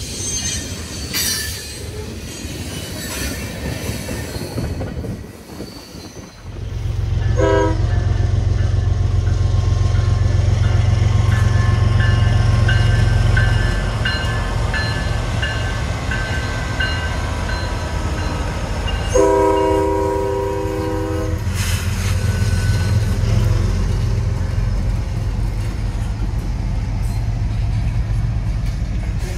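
Freight cars rolling past with wheels squealing and clicking over the rail joints. Then diesel locomotives of a Canadian National freight rumble close by as they move past. Their air horn gives a short toot about seven seconds in and a longer blast of about two seconds around two-thirds of the way through.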